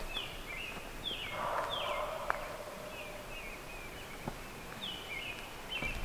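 Songbirds chirping in woodland: short, high chirps that slide downward, repeated every half second or so and pausing in the middle, over a faint steady background hiss.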